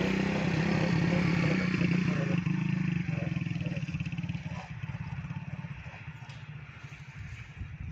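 Motorcycle engine running close by, then fading steadily after about three seconds as the bike pulls away.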